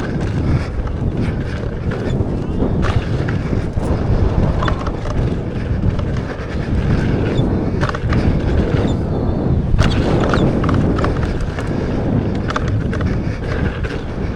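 Electric unicycle ridden fast over a rough dirt trail: wind buffets the microphone in a constant rumble, with frequent knocks and rattles from the tyre and gear over bumps and stones.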